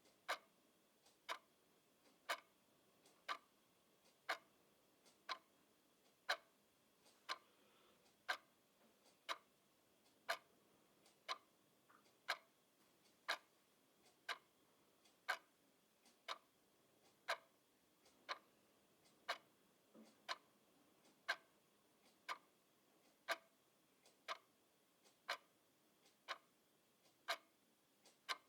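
Clock ticking steadily, sharp ticks about once a second.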